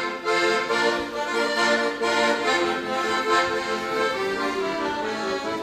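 Accordion playing an instrumental passage of a lively folk-style song with a steady pulse, between sung lines.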